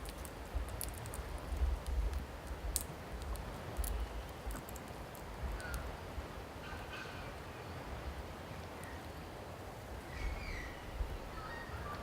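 Birds feeding: sharp clicks and taps in the first half, then short chirping calls from about six seconds in, over an uneven low rumble.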